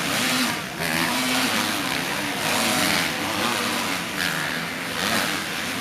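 Motocross bike engines racing, revving up and down in pitch as riders accelerate and shift.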